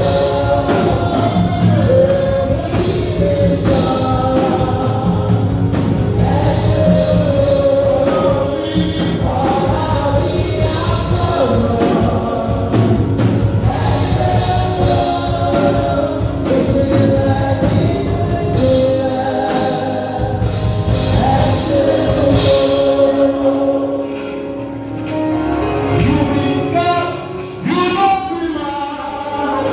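Gospel music with a choir singing over a band.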